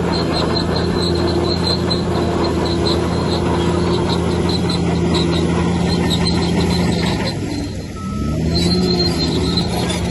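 Bulldozer's diesel engine running under steady load, with a high squeak repeating about three times a second, typical of crawler tracks. About seven seconds in the engine note dips briefly, then climbs back up.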